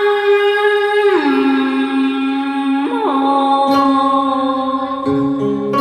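A singer holds a long sung note that slides down in pitch about a second in and again near three seconds, over instrumental backing, and the word 'hồn' comes near the end.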